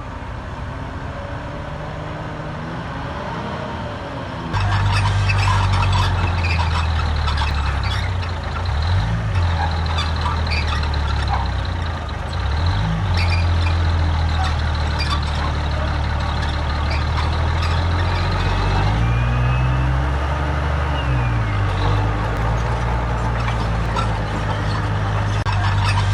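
Heavy diesel engine of earthmoving machinery running. The sound turns suddenly louder about four and a half seconds in, and the engine pitch dips and rises several times as it works.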